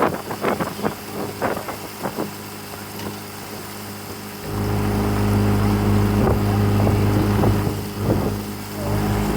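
Motorboat engine running with a steady low hum that jumps much louder about halfway through, dips briefly near the end, then picks up again. Wind noise on the microphone is heard in the quieter first half.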